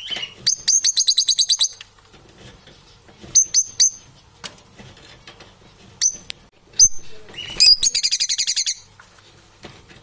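Parrots calling with high-pitched chirps: a rapid trill of short notes near the start, short single chirps in the middle, and another rapid trill near the end.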